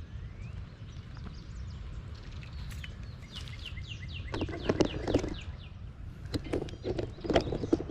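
A songbird sings a run of quick, repeated downward-sliding chirps over a steady low rumble. From about four seconds in come louder bursts of knocking and rustling.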